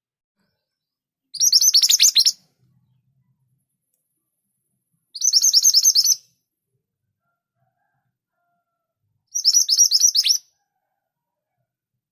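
Scarlet minivet singing: three short bursts of fast, high-pitched repeated chirps, each about a second long, about four seconds apart.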